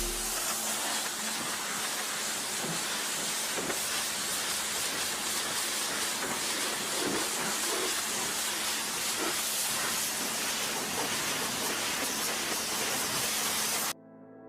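Steady hiss of a high-pressure water spray washing a car, cutting off suddenly near the end.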